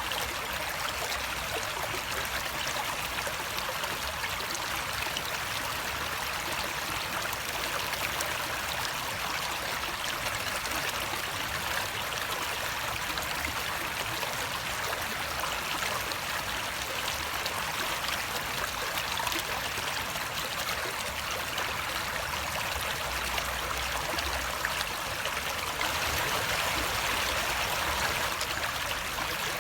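Steady running water, an even rush and trickle that grows a little louder near the end.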